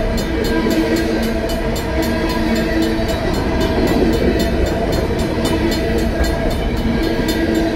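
Union Pacific freight train of covered hopper cars rolling steadily through a grade crossing, its wheels rumbling on the rails. Over it the crossing's bells, including a Safetran mechanical bell, keep ringing in rapid, even strikes while the gates are down.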